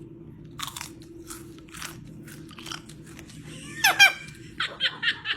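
Parrot crunching with its beak in a few sharp bites, then one loud squawk about four seconds in, followed by quick repeated chirps, about four a second.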